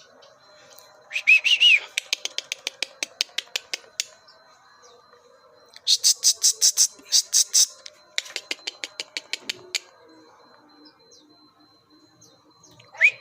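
Pied bushchat calling: short whistled chirps that rise and fall, then runs of rapid, dry clicking calls at about seven a second. In the middle come a few louder, harsher notes, and another whistled chirp comes at the very end.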